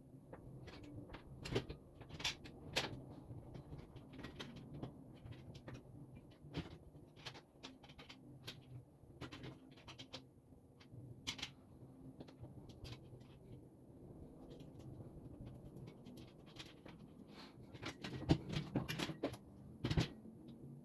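Irregular light clicks and knocks of parts and hardware being handled while a flat-pack work table is assembled, a few louder knocks near the end, over a faint steady hum.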